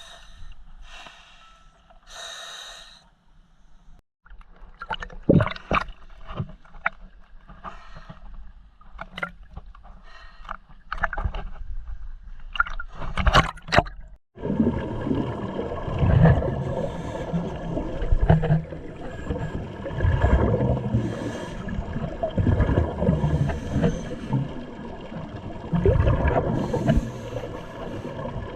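Underwater sound through a GoPro housing: scattered sharp knocks and clicks, then, after a brief dropout about halfway through, a continuous rumbling, gurgling wash of bubbles and breathing typical of a scuba diver's regulator.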